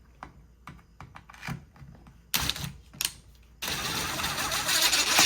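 Hammer drill parts being handled and fitted together during reassembly: light clicks, sharper knocks about two and a half and three seconds in, then a steady scraping rattle from about three and a half seconds in.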